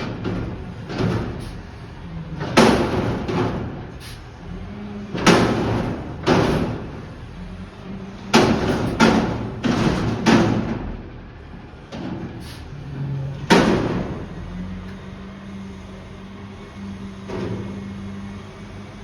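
Garbage truck emptying trash bins into its hopper: a run of loud bangs and clatters as the bins are tipped, shaken out and set back down. A steady low drone from the truck's engine runs under them and carries on alone near the end.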